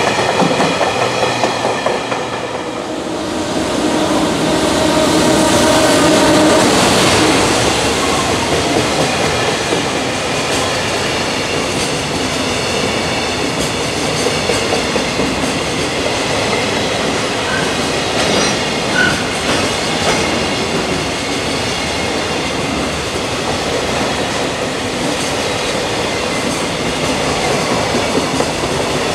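Freight train running past, its wheels clacking over the rail joints with a continuous loud rush of rolling noise. About two to three seconds in, the sound dips briefly before swelling up again.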